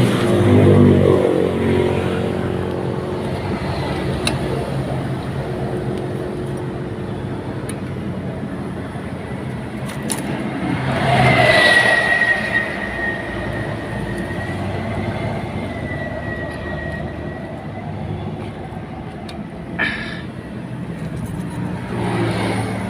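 Motor vehicle engines running, loudest in the first two seconds, then a steady drone. About halfway through a vehicle swells louder and a thin high whistle holds for several seconds. A single sharp click comes near the end.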